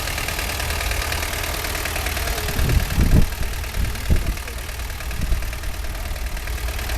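An engine idling steadily, with a few low thumps close together about three seconds in and one more about a second later.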